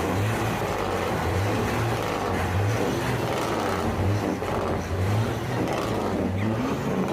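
Diesel truck engine running, a continuous noisy sound with a low pulsing note that swells and eases several times.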